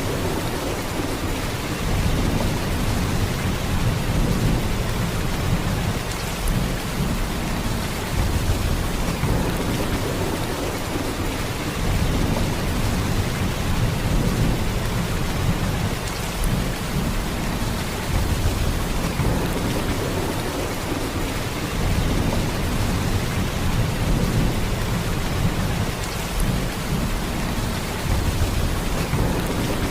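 Heavy rain falling in a steady downpour, with a deep low rumble that swells and eases every few seconds.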